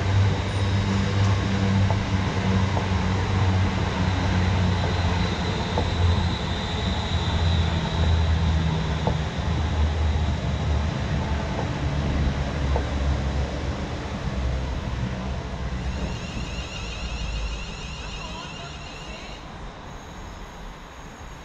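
EMR Connect Class 360 electric multiple unit running past along the near track, with a steady low rumble of wheels on rail and a faint high whine in the middle. The rumble dies away over the last several seconds as the train draws off.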